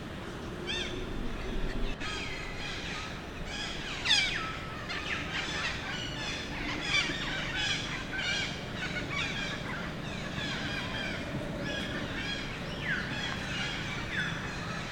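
Baby monkey crying: a rapid string of short, high-pitched calls, several sliding steeply down in pitch, with one loud cry about four seconds in.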